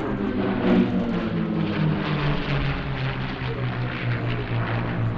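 WWII piston-engined fighter flying past, its propeller and engine drone dropping in pitch over the first couple of seconds as it passes, then holding a steady lower note as it flies away.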